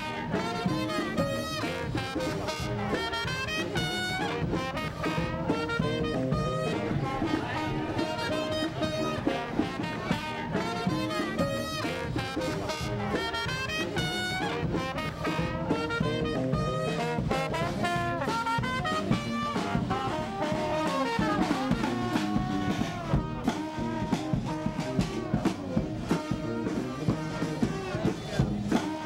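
Swing-style jazz music led by brass, trumpet and trombone over a steady beat.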